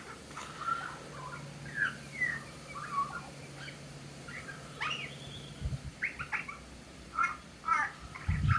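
Grey butcherbird singing: a string of short whistled notes and slurred glides. A few low thumps come through near the end.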